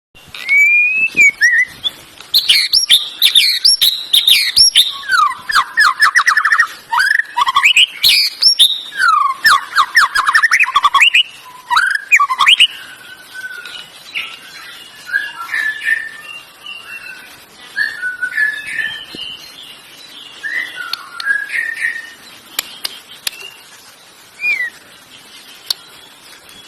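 Canary singing: a loud song of fast trills and rising and falling whistled notes for about twelve seconds, then softer, scattered chirps and short phrases.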